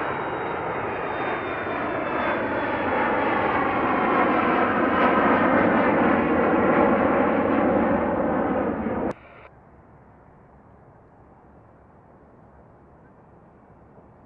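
Airplane engine noise from an aircraft taking off and passing, growing louder and then steady at its loudest, then cut off abruptly about nine seconds in, leaving a faint steady background hiss.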